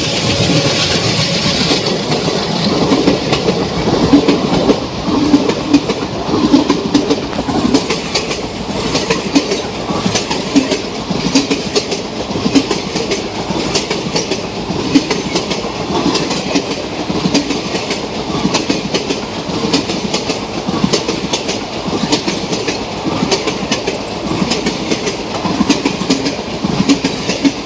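Express passenger train, the Venkatadri Express, running through a station at about 95 km/h: the coaches pass with a loud continuous rumble and rapid clickety-clack of wheels over rail joints.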